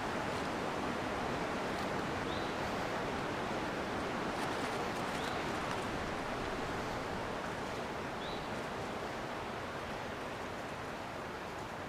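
Wind rushing steadily through the trees on a mountain ridge, an even noise without pauses. A faint, short, high rising chirp recurs about every three seconds.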